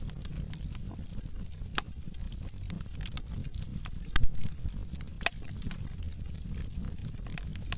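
Wood logs burning in a fireplace, crackling with sharp pops scattered irregularly through, the loudest about four seconds in, over a low steady rumble of the fire.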